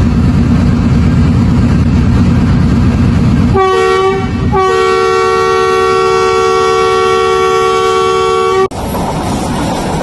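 Train running with a loud low rumble, then its chord horn sounds a short blast and then a long blast of about four seconds, which cuts off abruptly.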